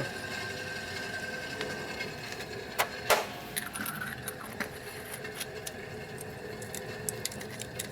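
Scattered clicks and knocks of small metal parts being handled, with two louder knocks about three seconds in, over a steady faint hum.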